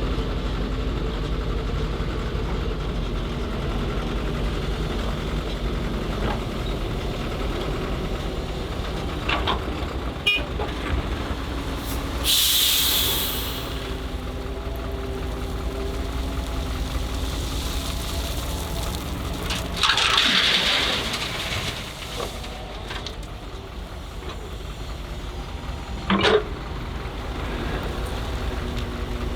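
Heavy diesel engine of an excavator at work, running steadily, with two short bursts of hissing air, about twelve and twenty seconds in, and a few sharp knocks.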